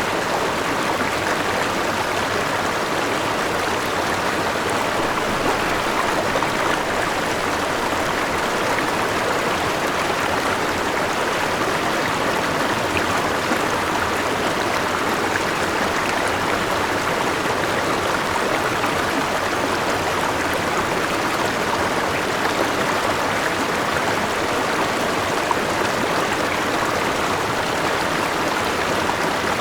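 Forest river and small waterfall: water rushing steadily, without a break.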